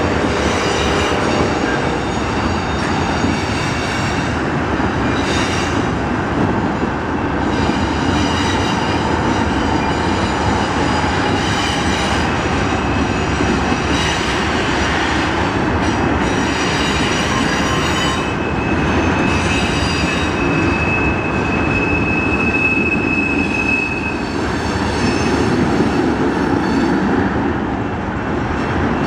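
Freight train of tank cars rolling past at close range: a steady rumble and clatter of wheels on rail, with a high wheel squeal held for about five seconds roughly two-thirds of the way through.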